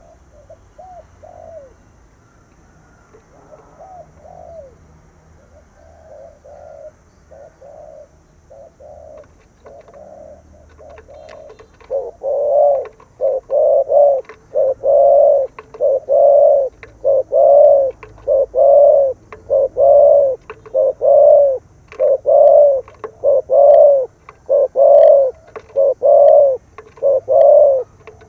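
Spotted dove cooing, in the call style that Vietnamese dove keepers name 'thổ cấn bầu 3 hậu thúc'. The coos are faint for the first ten seconds or so, then from about twelve seconds in come as a long run of loud, evenly spaced coos, a little more than one a second.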